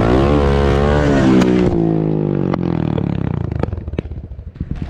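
A vehicle engine revving up and down, then dropping back to a quieter, even idle in the second half.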